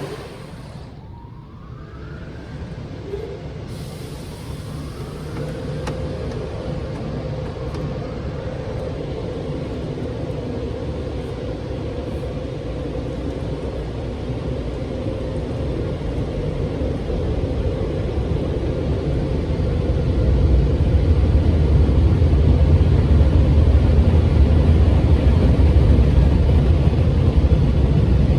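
Automatic car wash equipment running: a steady rush with a faint hum, and a low rumble that grows louder over the last third.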